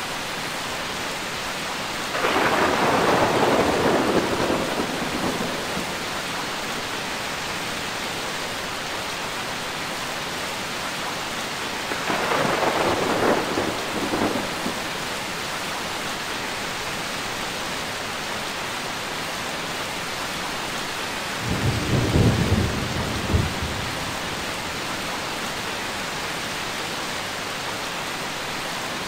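Steady rain with three peals of thunder: a loud one that starts suddenly about two seconds in and fades over a few seconds, a shorter one about twelve seconds in, and a deeper rumble about twenty-two seconds in.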